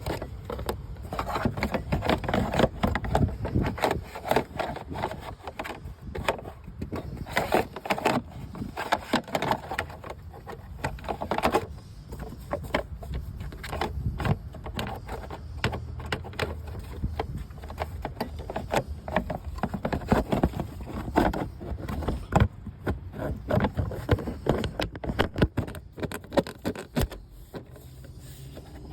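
Irregular clicks, knocks and scrapes of hard objects being handled, over a low steady hum.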